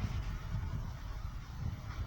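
Passenger train running along the line: a low, steady rumble.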